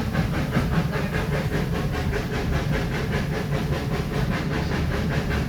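Steam train running along the line, heard from inside a carriage: a steady low rumble with a rapid, even beat of about five strokes a second.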